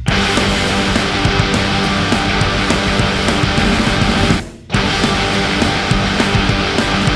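Loud music pumped through a large carnival sound-system rig (sound horeg), with heavy bass and a harsh, distorted edge; it drops out briefly about four and a half seconds in.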